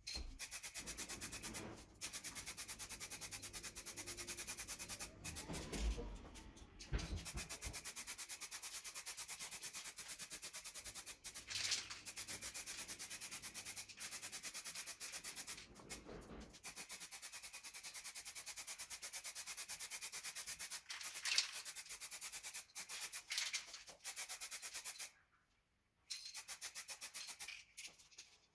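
Hand sanding with sandpaper, fast back-and-forth rubbing strokes in long runs with a few short pauses, typical of scuffing the skid plate's surface before priming and painting.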